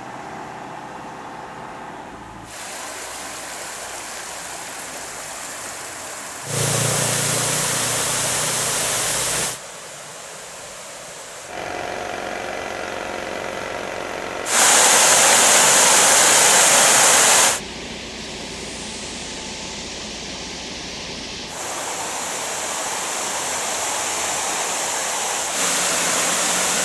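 Steady rush of fast-flowing stream water, jumping abruptly louder or softer every few seconds as the shots change; loudest for about three seconds a little past the middle.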